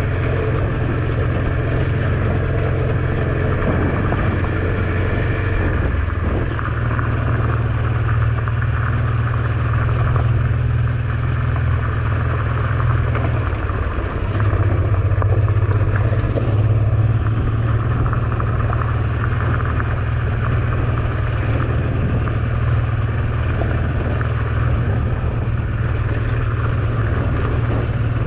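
Honda Transalp XL650V's 647 cc V-twin engine running steadily while the motorcycle is ridden along the road, with road and air noise. The engine note shifts briefly about 6 and 14 seconds in.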